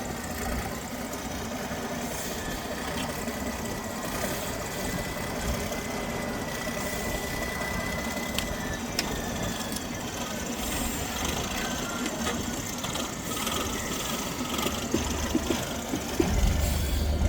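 Off-road trial truck engine running steadily, with a thin high whine over the first half.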